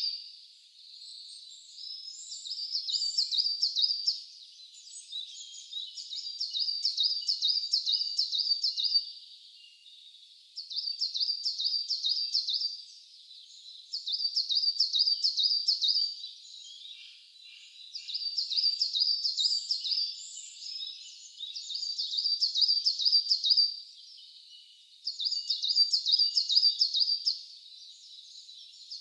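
A songbird singing the same high-pitched phrase over and over. Each phrase is a quick run of repeated notes about two to three seconds long, coming every three to four seconds, with fainter chirps in between.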